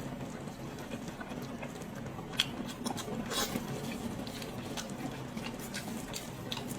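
Close-miked eating of pig's head meat: irregular wet mouth clicks and smacks while chewing, with a sharper click about two and a half seconds in, over a faint steady low hum.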